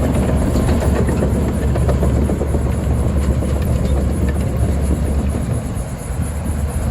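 Diesel engine of heavy earth-moving machinery running steadily with a deep, even rumble.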